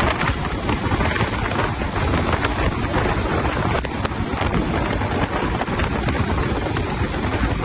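Wind buffeting the microphone as a steady rushing noise, heaviest in the deep low end.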